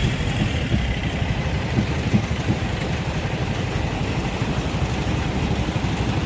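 A truck engine running steadily at low revs, a fast low pulse, with a few short knocks in the first couple of seconds.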